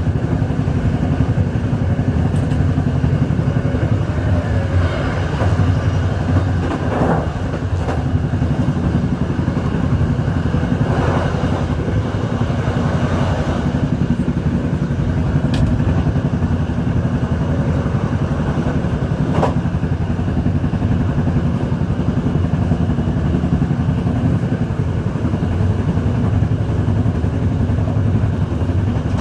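Majapahit passenger train running, a steady low rumble with short swells of rattling and a couple of sharp clicks.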